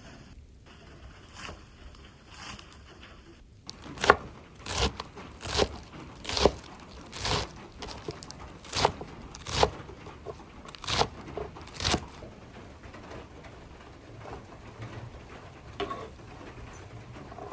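About a dozen sharp knocks at an even pace, a little under one a second, starting about four seconds in, with a couple of fainter ones before and one near the end.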